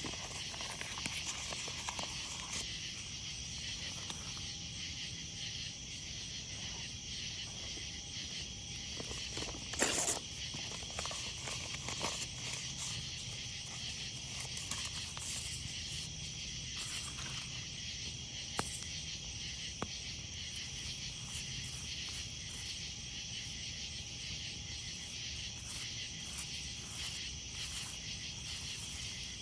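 Night insects trilling in a steady, high chorus, with scattered small crackles and pops from a wood campfire. One louder crackle comes about ten seconds in.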